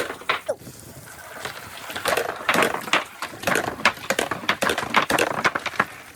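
A marble rolling down a marble run, clicking and clattering in a rapid, irregular series of small knocks from about a second and a half in.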